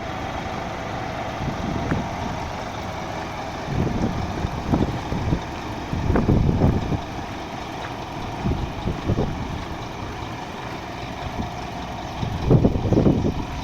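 Scania P 230 truck's diesel engine idling steadily, with irregular low rumbles swelling over it a few times.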